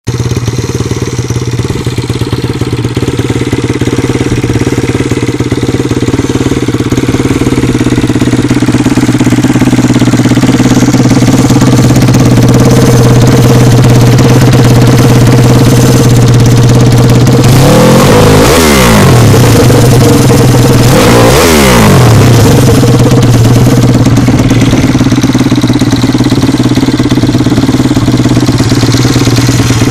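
Zongshen 155 single-cylinder four-stroke pit bike engine with a 26 mm Molkt carburettor, idling steadily. Past the middle it is revved twice in quick succession, each time a short rise in pitch that falls back to idle.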